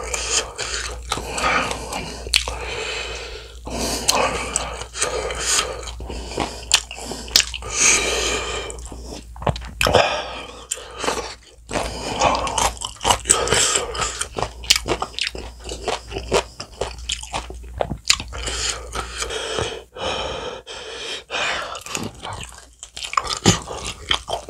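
A person chewing sauce-glazed, bone-in fried chicken: crisp crunches of the coating mixed with wet chewing, in a dense, irregular run of sharp crackles.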